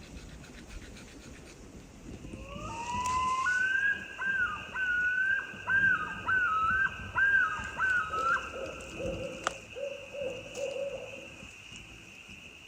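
Common loon calling: a rising note, then a loud run of repeated two-pitch phrases, the pattern of the loon's yodel.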